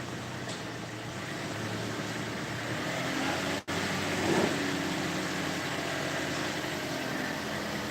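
A vehicle engine running steadily at idle, with a momentary cut-out a little before halfway and a brief louder swell just after it.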